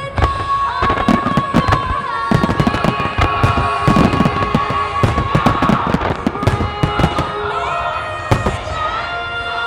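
Aerial fireworks shells bursting and crackling in rapid succession, many bangs a second, over loud song music from the show's sound system, where a singer holds one long high note for most of the first six seconds.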